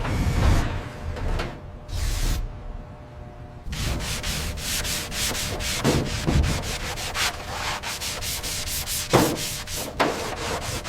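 Abrasive scrubbing of rusty metal, as in sanding rust off an engine block. A couple of swishes come first, then after a short lull a continuous run of quick rasping strokes starts about four seconds in.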